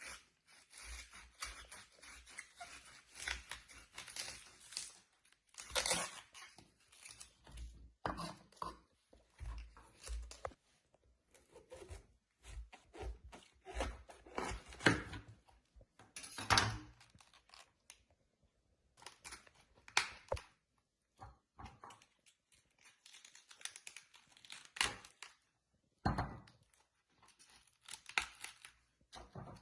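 Hands preparing food: irregular tearing, crinkling and cutting noises in quick, uneven strokes, with short pauses between them.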